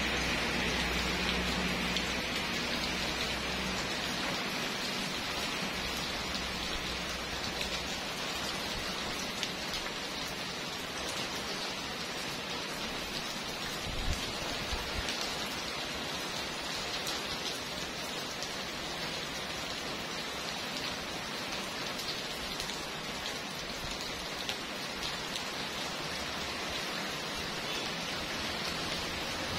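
Heavy rain pouring steadily onto wet paving, a constant hiss with scattered close drop taps; one tap stands out about halfway through.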